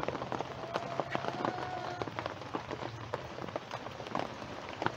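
Rain falling steadily on the chicken run, with many separate drips tapping irregularly on the ground and surfaces.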